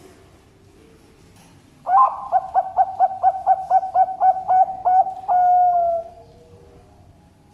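Zebra dove (Bangkok-type perkutut) singing one song: an opening note, a quick run of about a dozen short coos at roughly four a second, then a longer final note that falls slightly in pitch.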